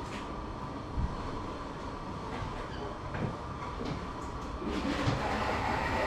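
Steady low rumble of a vehicle in motion, with a few faint knocks.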